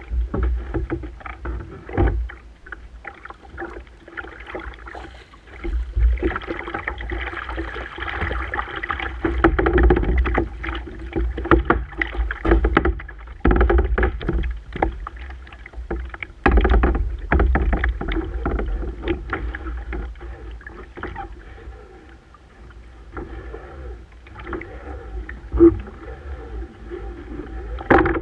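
A kayak on the water: water splashing and sloshing around the paddle and hull, with irregular knocks and a low rumble that comes and goes.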